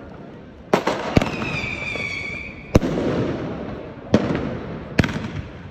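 Fireworks going off: five sharp bangs, each trailing a rolling rumble. One whistling tone sounds for about a second and a half and falls slightly before cutting off into a bang.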